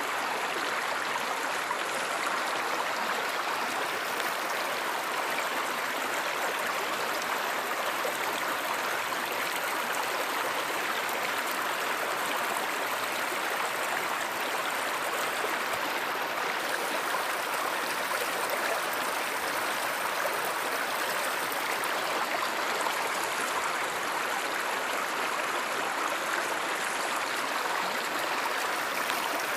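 Stream water flowing steadily: an even, unbroken rush of running water.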